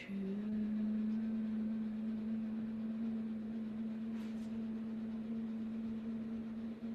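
A single steady low tone, held for about seven seconds, sliding up slightly in pitch as it starts.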